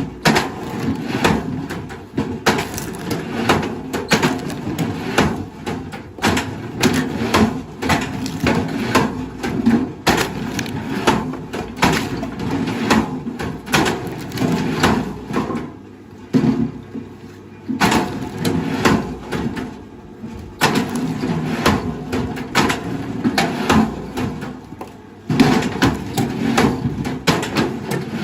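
Wood knocking and cracking in many irregular sharp strikes over a steady low rumble, easing off briefly a few times.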